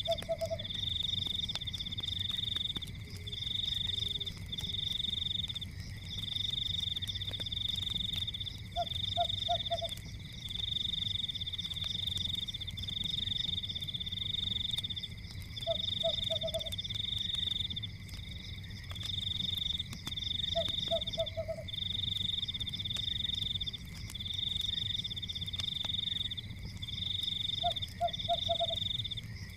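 Nature ambience for sleep: a high, pulsing trill from calling frogs goes on almost without pause in bouts of about a second. A short three-note call repeats roughly every six seconds, over a low steady fire rumble with faint crackles.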